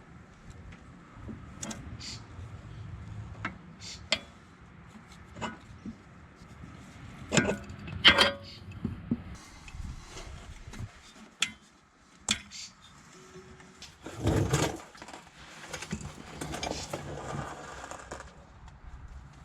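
Scattered clicks, clinks and knocks of hand tools and small metal parts being handled during brake bleeding. A cluster of louder knocks comes about halfway through, and a longer rustle follows a few seconds later.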